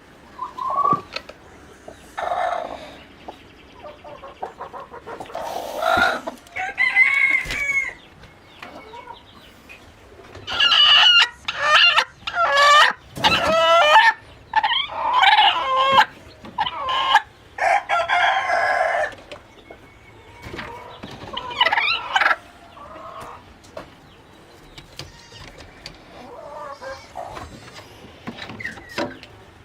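Chickens calling: hens clucking and squawking with a rooster crowing, the calls packed loudest in a dense run from about ten to nineteen seconds in and scattered more quietly before and after.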